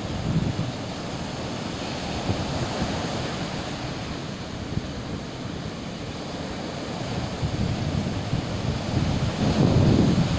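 Sea surf washing steadily, with wind buffeting the microphone in low rumbling gusts that grow stronger near the end.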